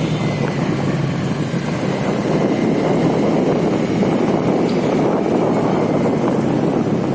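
Steady rush of wind and road noise while riding a motorcycle, with the engine running underneath.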